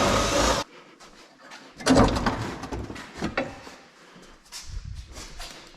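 Clunks, scrapes and rattles of pickup-truck front-end body parts being pulled and handled. A noisy scrape cuts off about half a second in, a sharp clatter comes about two seconds in, and lighter knocks follow.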